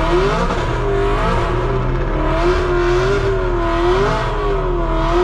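Car engine revved and held at high revs, its pitch wavering up and down as the throttle is worked.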